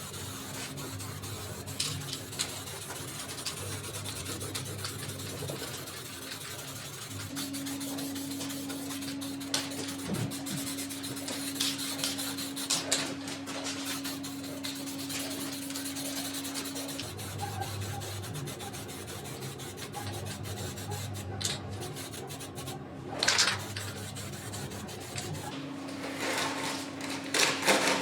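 Rubbing and scraping on a plastic bike part, as in sanding or prepping it for paint, with a steady hum that starts and stops several times. There are louder scraping strokes near the end.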